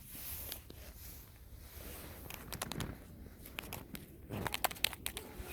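Close-up handling noises: soft rustling, then a run of sharp clicks and crackles from about two seconds in until near the end.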